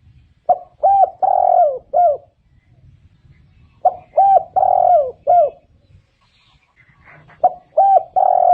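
Spotted dove cooing: three phrases about three and a half seconds apart. Each is a short note, two arching notes, one longer note and a final arching note. This is the dove's repeated territorial coo, used as a decoy call.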